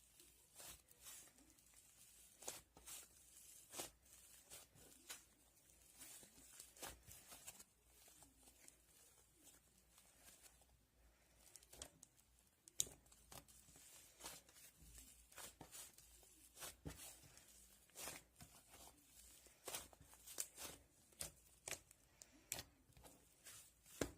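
Hands kneading, stretching and pressing clay slime, making soft, irregular clicks and crackles with small tearing sounds.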